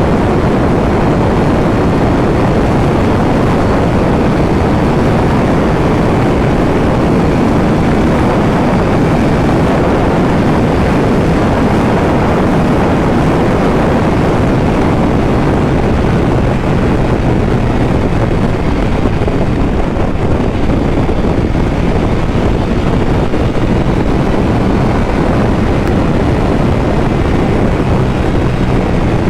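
Ducati Panigale V4 superbike ridden at high speed: a loud, steady rush of wind noise with the V4 engine's drone underneath.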